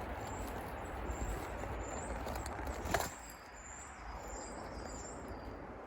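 A small bird's thin, very high chirps, repeated a dozen or so times. For the first three seconds a steady rustle lies under them, ending in a sharp click, after which it is quieter.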